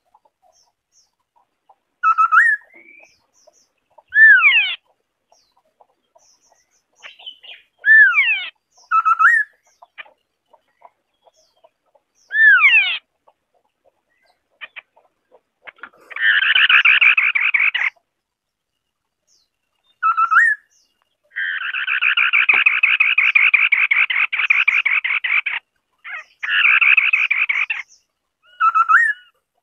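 White-browed scimitar-babbler calling: short, clear whistled notes that slide downward, repeated every couple of seconds, then long harsh rattling chatters in the second half, the longest about four seconds.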